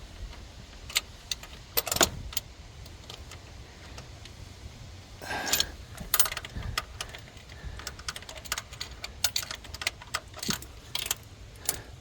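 Hand tools working on engine cylinder head bolts: irregular sharp metallic clicks and clinks of a socket and ratchet against the engine, with a short rattling burst about five seconds in and a run of quicker clinks near the end.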